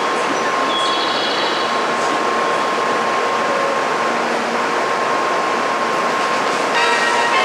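Steady hum and noise of a Shinkansen train standing at the platform, with a constant whine running through it. Near the end, a platform melody starts playing over the station speakers.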